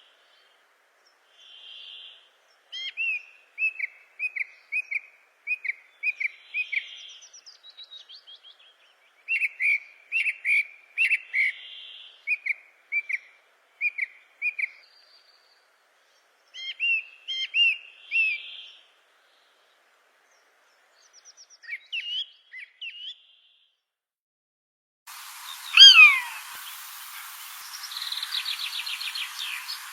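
Birds singing: quick runs of short, repeated whistled notes, with a softer fuzzy call every few seconds. About 25 seconds in, a steady hiss comes in and a single loud call falls steeply in pitch.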